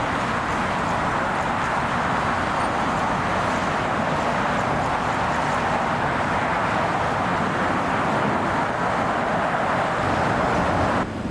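Jet airliner engines making a steady roar that builds slowly, then cuts off abruptly near the end.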